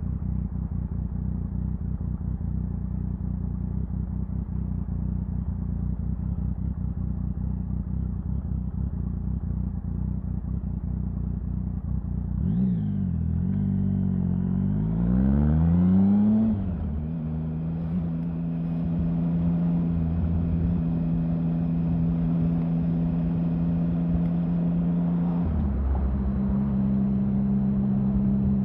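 Triumph Sprint 1050's three-cylinder engine running at a steady speed. About halfway through the revs dip and climb again in a quick shift and a burst of acceleration, then settle into a steady, higher drone, with another short shift near the end.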